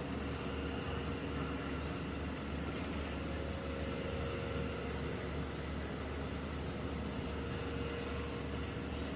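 Steady hum and rumble of a diesel passenger train, heard from inside the carriage, with a few steady tones over an even low drone.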